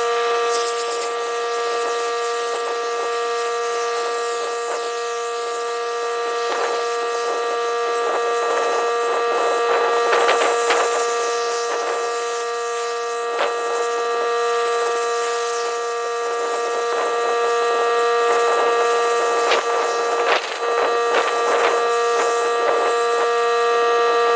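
Pressure washer running steadily while rinsing, with a constant high-pitched whine over the hiss of the water spray.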